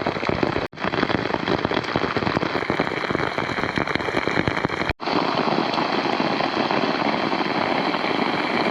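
Heavy rain pouring down in a dense, crackling patter. It cuts out abruptly twice, less than a second in and about five seconds in.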